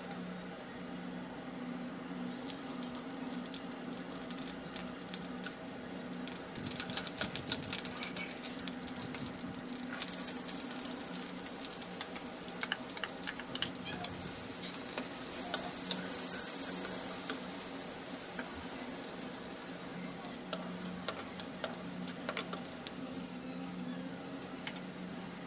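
Chopped onion frying in hot mustard oil in a nonstick pan, stirred with a wooden spatula. Sharp crackles start about a quarter of the way in and build into a loud, steady sizzle through the middle, then ease off, with a steady low hum throughout.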